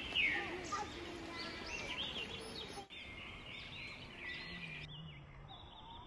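Small birds chirping: many short, arching chirps, repeated over and over over a faint steady hiss.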